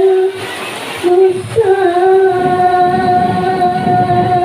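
A single voice singing: a short phrase breaks off just after the start, then one long, steady held note begins about a second in.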